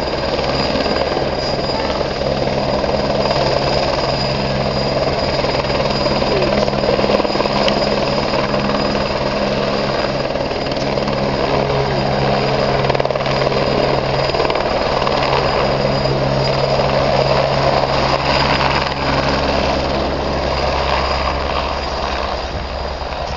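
Helicopter running steadily in flight: a continuous engine and rotor drone with a thin high whine over it.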